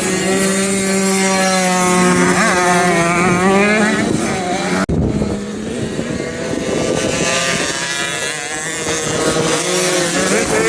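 Motocross bike engines running on the track, rising and falling in pitch as the bikes rev and pass, with one engine holding a steady note for the first few seconds. The sound breaks off abruptly a little under five seconds in, then more engines rev.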